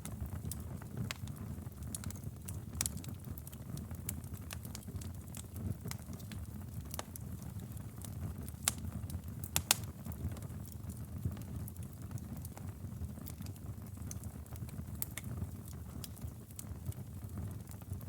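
Bonfire crackling: irregular sharp pops and snaps of burning wood over a steady low rumble. The loudest pops come as a pair about halfway through.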